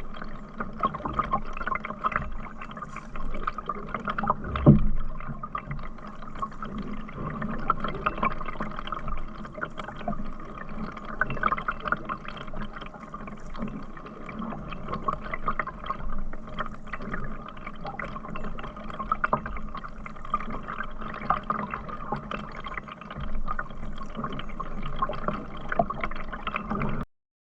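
Water gurgling and splashing around a canoe as it is paddled along, with one thump about five seconds in. The sound cuts off suddenly near the end.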